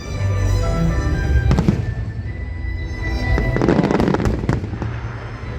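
Fireworks bursting, with a sharp bang about one and a half seconds in and a spell of dense crackling around four seconds in, over music playing throughout.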